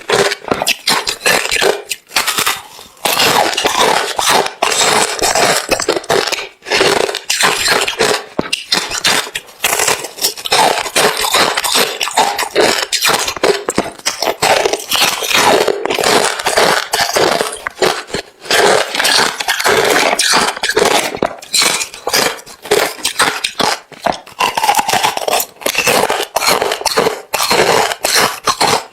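Close-up crunching of hard refrozen crushed ice being chewed, a rapid, continuous run of sharp cracks and crackles with only brief breaks.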